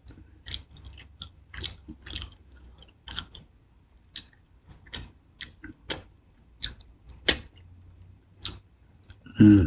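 Someone chewing crunchy fried chicken close to the microphone: irregular crisp crunches and mouth clicks, about one to two a second, with a brief voice sound near the end.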